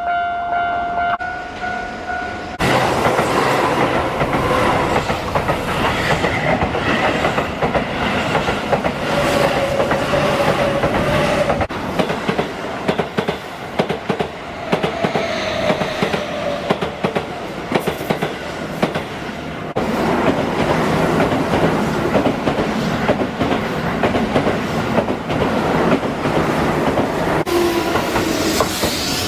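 A Japanese level crossing alarm rings its steady electronic "kan-kan" tone. About two and a half seconds in, Keihan electric trains start passing over the crossing, wheels clattering over the rail joints. The passing noise changes abruptly a few times, as one train's pass gives way to the next.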